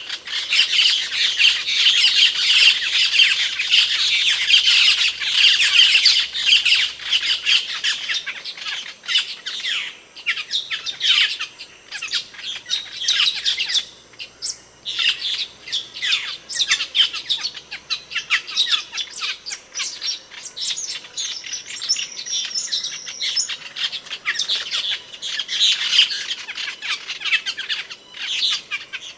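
Asian glossy starling calls: a dense stream of short, sharp, squeaky notes, busiest for the first several seconds, then sparser chatter, with a brief high whistle a little past the middle.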